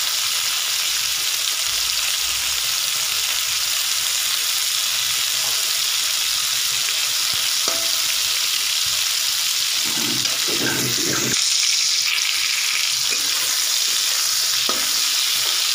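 Pointed gourd (potol) pieces sizzling steadily as they fry in hot oil in a metal kadai, turned now and then with a metal spatula that scrapes and taps the pan, most clearly about ten seconds in.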